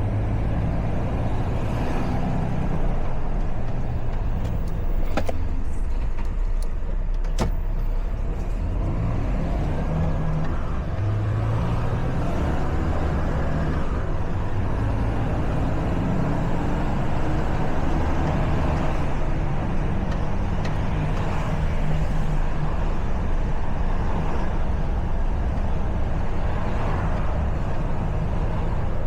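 Truck's diesel engine running under way, its note stepping up and down in pitch as the speed changes, with road noise. Two sharp clicks sound, about five and seven and a half seconds in.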